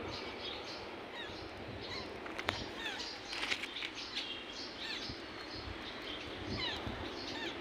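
Small birds chirping over and over, many short falling calls, with a few sharp clicks.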